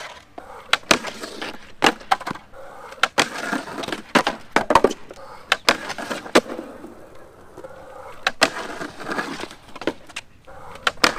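Skateboard with Avenue spring-suspension trucks rolling on concrete, with many sharp clacks of tail pops, landings and trucks hitting a ledge.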